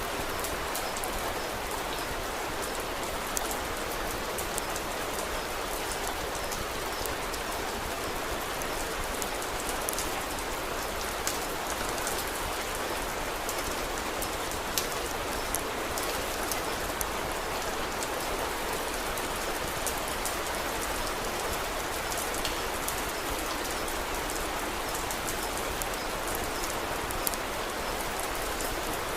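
Steady rain, an even hiss with scattered sharp clicks.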